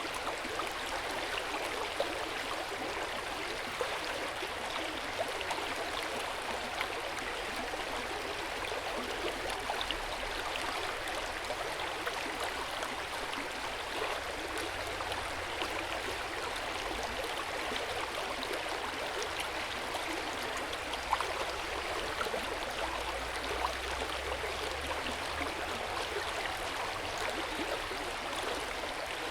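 Hot-spring water running and splashing into an outdoor bath, a steady flowing sound with small drips and splashes scattered through it.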